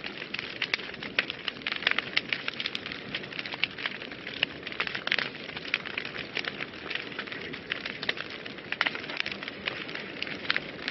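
Wood fire burning in a fireplace: a steady soft hiss with frequent irregular crackles and pops.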